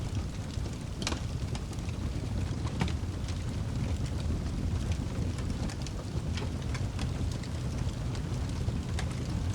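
Fireplace crackling: sharp pops and snaps scattered irregularly over a steady low rumble.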